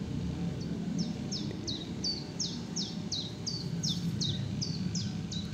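A small songbird calling in a fast, even series of short, high chirps, each sliding downward, about three a second, starting about half a second in. Under it there is a steady low outdoor rumble.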